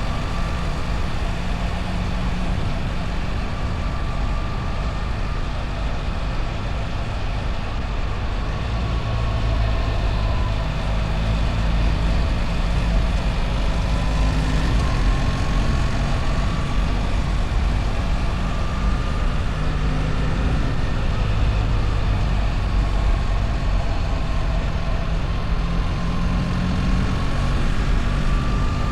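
BMW R1300 GS's boxer-twin engine running steadily while riding, over a constant rush of road and wind noise. The engine note rises and falls gently as speed changes, and it gets a little louder about ten seconds in.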